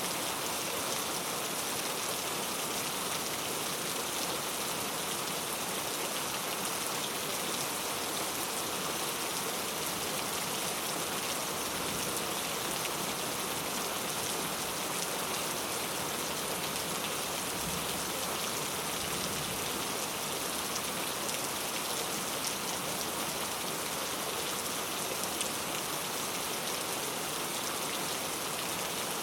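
Very heavy rain falling steadily, a dense even hiss of many drops.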